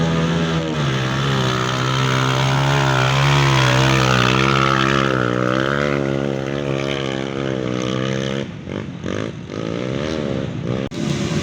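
Trail motorcycle engine held at high revs, the pitch wavering as the throttle works, then several quick blips of the throttle with short drops in between about three seconds before the end.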